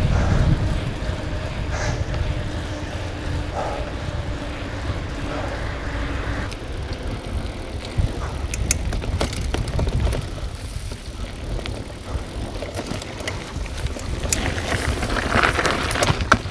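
Bicycle being ridden along a road, heard from a microphone mounted on the bike: a steady low rumble of wind buffeting and tyre noise, with a few sharp clicks and rattles from the bike around the middle.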